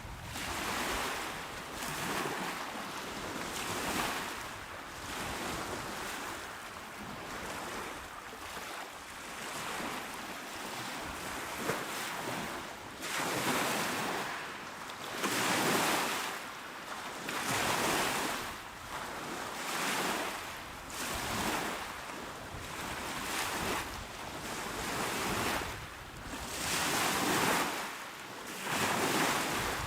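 Calm waves breaking and washing onto the shore, one wash after another, coming about every two seconds in places.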